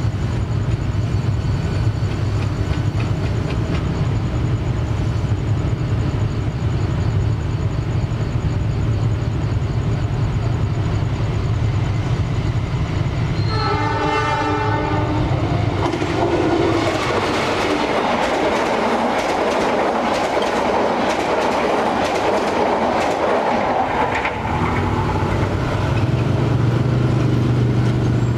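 A train hauled by a diesel locomotive approaches with a low engine drone and sounds its horn once, for about two seconds, halfway through. Its cars then pass with wheels clattering over the rails. Near the end, motorbike engines start up as traffic moves across.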